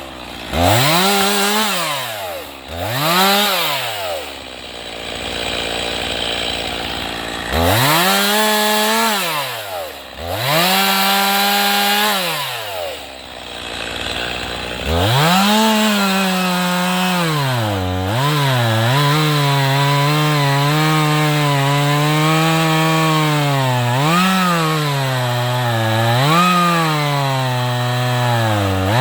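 Two-stroke chainsaw revved up and back down several times, then held at speed through a long cut, its pitch sagging and recovering again and again as the chain bites into the wood.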